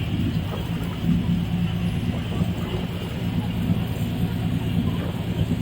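Boat engine running at a steady speed, a low, even drone with no change in pitch.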